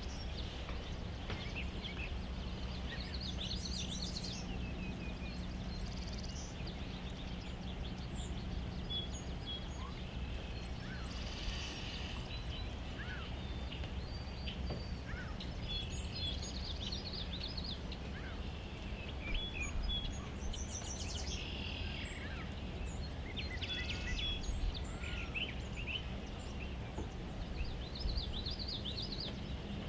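Wild songbirds chirping and trilling in short scattered phrases, over a steady low background rumble.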